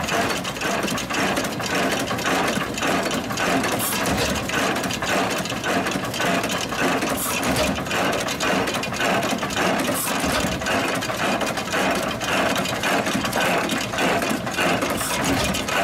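Page hit-and-miss gas engine driving a grist mill by belt: a steady, rapid mechanical clatter from the mill and drive, with a louder stroke every three to five seconds.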